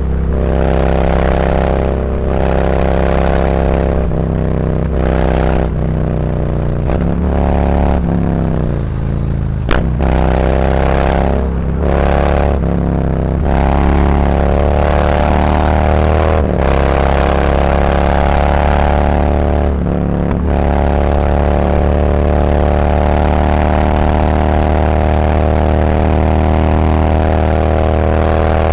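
Harley-Davidson Road Glide's V-twin through SuperTrapp 4-inch slip-on mufflers with internal discs, riding in town. There are several short throttle-offs in the first few seconds, then the engine slows with a brief click near ten seconds. It pulls up again in rising pitch and settles into a steady cruise for the second half.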